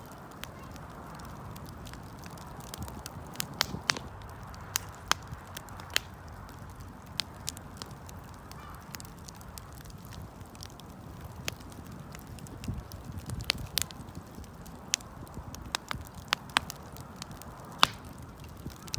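Wood campfire crackling: irregular sharp pops and snaps, a few a second, over the steady low rush of the burning fire.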